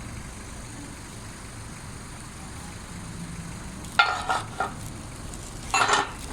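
Several short sharp knocks and clatters of something being handled, starting about four seconds in, over a steady low hum.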